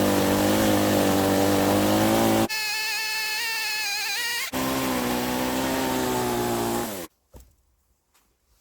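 Budget Titan petrol chainsaw with a 50 cm bar running hard in a milling jig, its pitch and tone changing abruptly twice. It stops sharply about seven seconds in.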